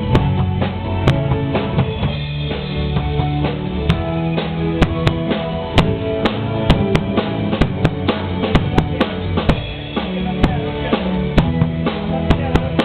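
A band playing a rock song: a drum kit keeps a steady beat with kick and snare under held chords and a bass line.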